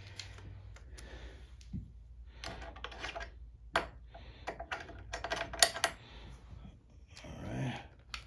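Hand tools clicking and clinking in irregular, sharp knocks: a 3/8 socket and wrench being picked up and worked on a carburetor mounting bolt of a Briggs & Stratton mower engine.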